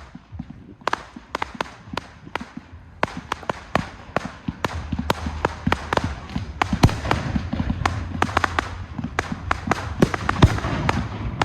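Fireworks display: a rapid run of sharp bangs and crackling reports that grows denser and louder from about four seconds in.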